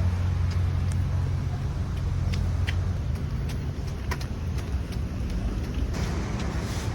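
Footsteps of a person walking outdoors, light short steps roughly every half second, over a steady low rumble that is strongest in the first few seconds.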